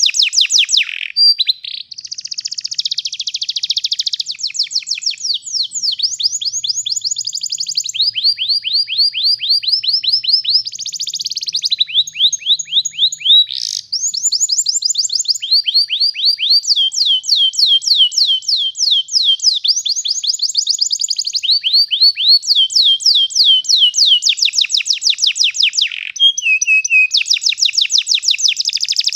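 Domestic canary singing a long, continuous rolling song: fast trills of repeated downward-sweeping notes that switch to a new phrase every few seconds, with a short break about halfway through and another near the end.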